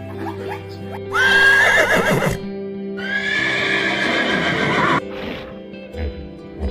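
Horse whinnying twice: a shorter neigh about a second in, then a longer one lasting about two seconds, over background music.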